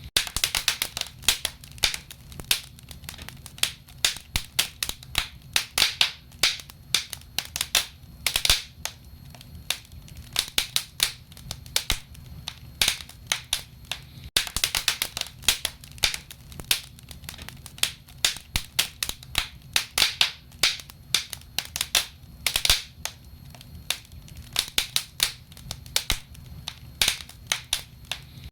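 Wood fire burning in a fireplace, crackling with many irregular sharp pops and snaps over a low steady rumble.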